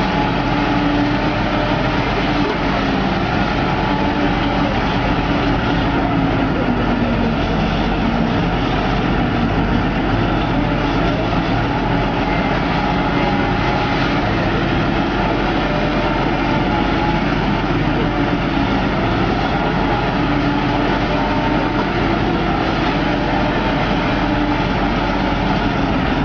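Heavy diesel earthmoving machinery running steadily, its engine hum holding with small wavers in pitch throughout.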